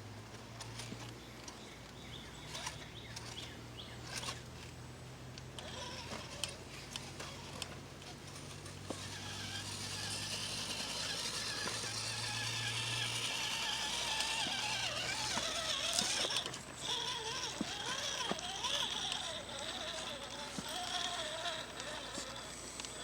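A vehicle engine running low and steady, with scattered clicks and creaks. A high buzzing hiss builds from about halfway through.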